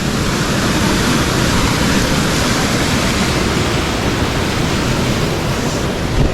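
Mountain stream rushing and splashing over rocks, a loud, steady hiss of water with no let-up. A short knock sounds near the end.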